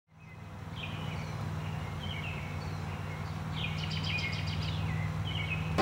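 Birds giving short chirping calls in woodland, several scattered calls and a quick trill near the middle, over a steady low hum. The sound fades in at the start.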